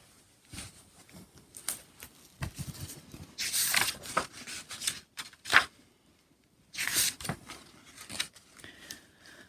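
Paper rustling and light taps as a picture book is handled and its pages turned, with two louder paper swishes about three and a half and seven seconds in.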